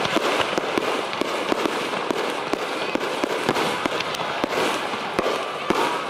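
Fireworks going off in a dense barrage: rapid crackling with many sharp pops a second over a continuous hiss.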